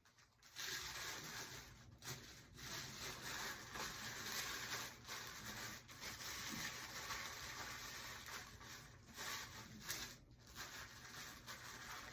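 Packing material rustling and crinkling as items are handled and wrapped, in uneven stretches with short pauses.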